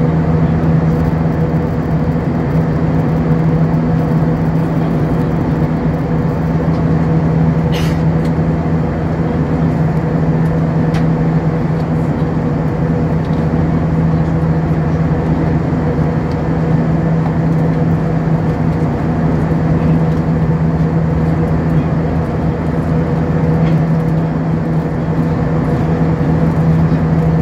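Steady cabin drone of an Airbus A320-232 with its IAE V2500 turbofan engines running under power, heard from inside the passenger cabin. A constant low hum sits under an even rush of air noise, with a faint click about eight seconds in.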